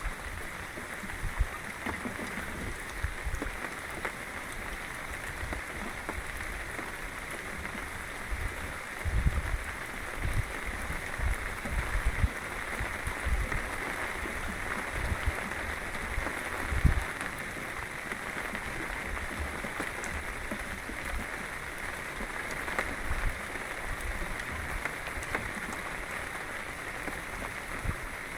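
Steady hiss of rushing water, with irregular low rumbles and thumps of wind buffeting the microphone.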